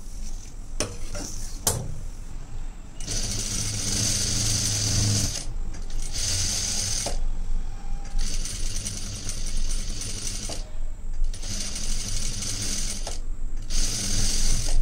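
Sewing machine stitching a blouse seam: the needle runs in short stretches of one to three seconds, stopping and starting again several times.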